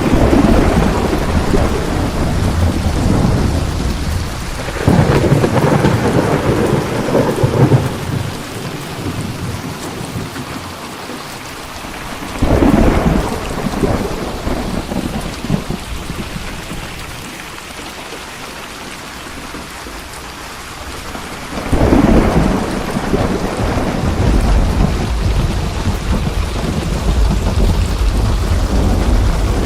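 Steady heavy rain with rolling thunder: rumbles at the start, about five seconds in, about twelve seconds in and again about twenty-two seconds in, each dying away slowly.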